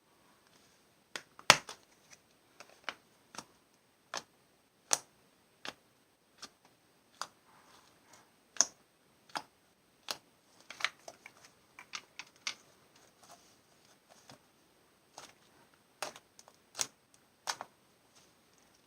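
Clear slime full of air bubbles being squeezed and worked by hand, giving sharp irregular popping clicks, a few a second, with one louder pop about one and a half seconds in.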